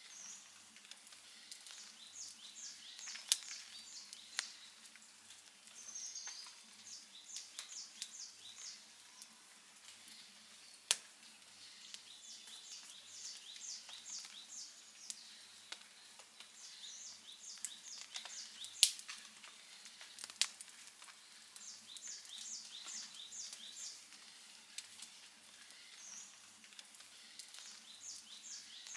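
Outdoor campfire crackling, with scattered sharp pops; the loudest come about 3, 11 and 19 seconds in. High-pitched chirping in short rapid runs repeats every few seconds.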